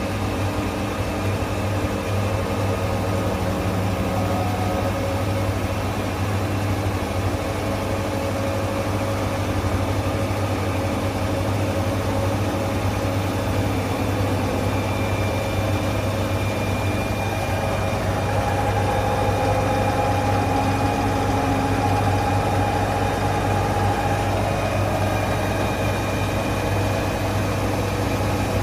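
A steady low machine hum with faint sustained tones drifting above it.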